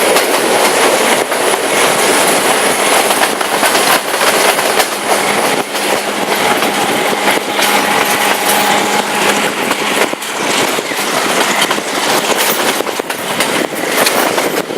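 Sri Lankan express passenger train running on the line: a loud, steady rattle and rumble of the carriage, with wheels clicking over the rail joints at irregular intervals.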